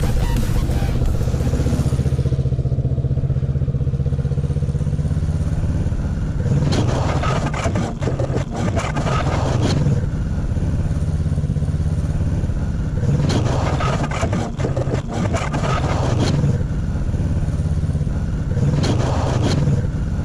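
Kawasaki Ninja 650 parallel-twin engine running at steady revs while ridden, with rushes of wind noise swelling and fading about every six seconds.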